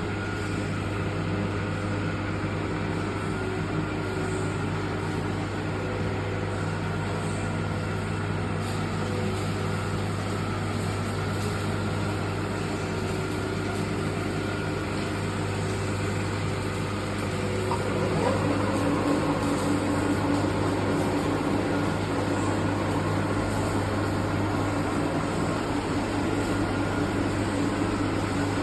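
Metal lathe running with a steady hum. About two-thirds of the way through it grows a little louder and its tone changes.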